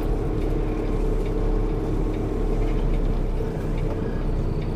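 Semi-truck's diesel engine running steadily at low speed while the rig is maneuvered, a constant low rumble.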